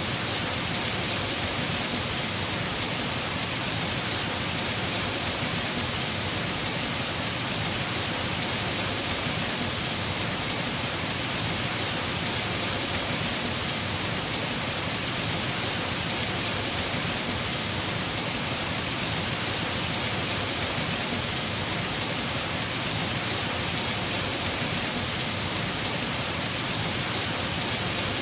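Heavy rain falling steadily on a house roof: a dense, even hiss with no thunder or separate drops standing out.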